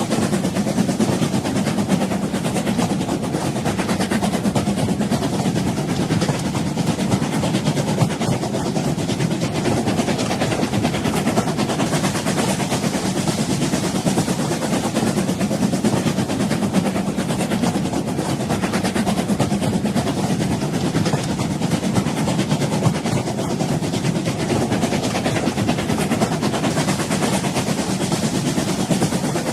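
Old train running steadily on the rails: a continuous low rumble with dense rattling over it.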